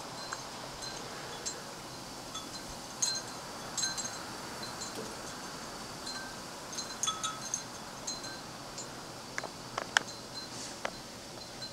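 Steady wind hiss in a snowstorm, with scattered light, high tinkling clicks that come in small clusters, most thickly about three to four seconds in and again from about seven to ten seconds in.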